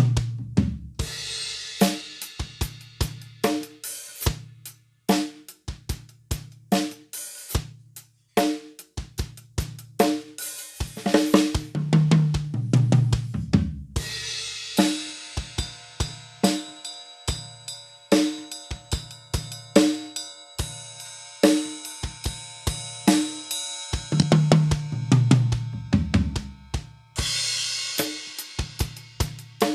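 A drum kit being played: a groove of snare, bass drum and hi-hat hits, broken by tom fills that step down in pitch, twice. A cymbal rings on through the middle stretch.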